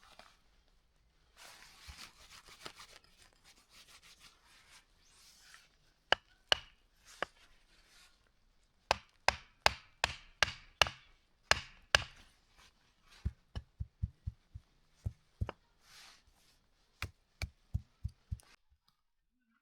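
Scraping and rubbing for a few seconds, then a series of sharp chopping strikes. They come fastest about halfway through, at roughly two or three a second, then continue as lighter, duller blows that stop near the end.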